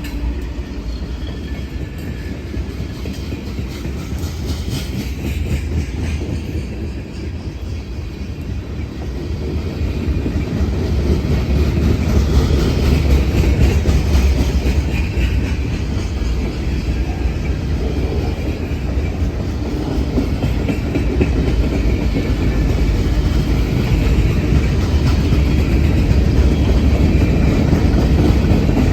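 Freight train rolling past, its cars' wheels rumbling and clattering on the rails, growing louder from about ten seconds in.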